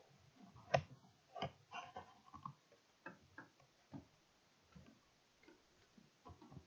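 Scattered light clicks and knocks at irregular intervals, some with a brief ringing tone, as of small hard objects being handled.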